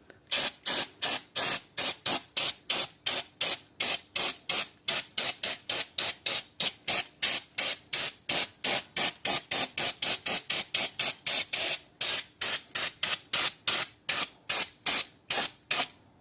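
Brake cleaner sprayed onto a freshly sanded brake disc in rapid short bursts, about three hisses a second, stopping near the end.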